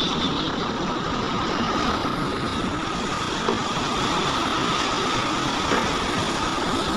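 Diesel engines of heavy earthmoving machinery running steadily, with a constant high tone through the engine noise.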